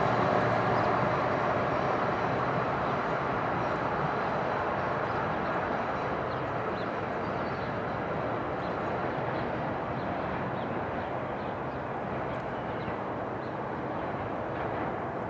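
A train's rumble slowly fading as it moves away after passing, a steady noise with no distinct clicks or horn.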